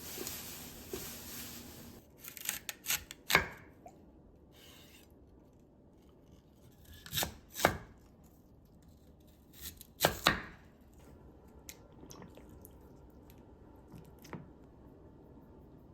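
A kitchen knife striking a cutting board in a few short clusters of cuts, with pauses between them. A steady hiss stops about two seconds in.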